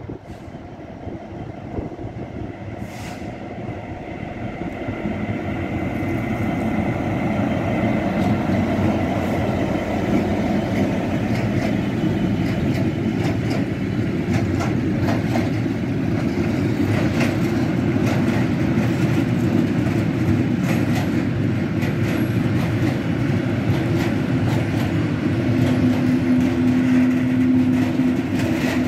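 Class 77 (EMD JT42CWR) diesel freight locomotive, with its two-stroke V12 engine, approaching and passing, growing louder over the first several seconds. A long train of covered hopper wagons then rumbles past, with wheel clicks over the rail joints, and a steady tone sounds for a few seconds near the end.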